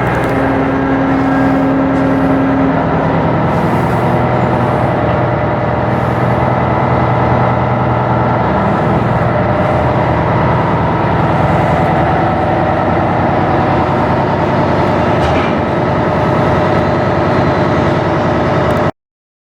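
Ship's diesel engine running steadily during a sea trial: a loud, even mechanical din with a constant hum. A steady tone stops about three seconds in, and the sound cuts out briefly near the end.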